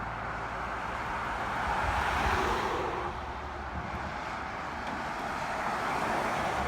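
Passing road traffic: a steady rushing noise that swells about two seconds in, eases off, and swells again near the end, over a low rumble.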